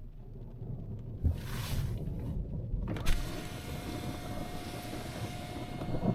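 Thunder rumbling low after a lightning strike. A sharp crack about three seconds in starts a rushing hiss, which cuts off near the end.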